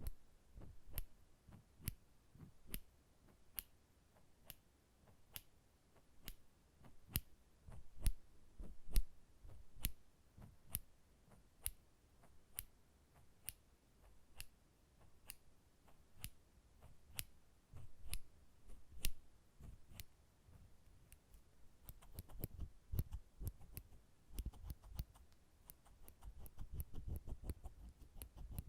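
Nail clippers clicking shut over and over, about one or two sharp clicks a second, with quicker runs of clicks and soft low thumps in the last third.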